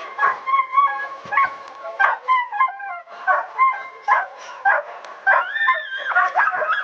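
Skijoring dogs barking and yelping in quick succession, about two or three yelps a second, with a longer rising-and-falling whine a little past halfway.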